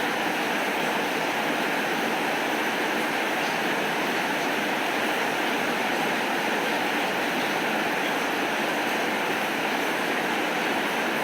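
Steady rain falling, an even hiss with no breaks and no thunder.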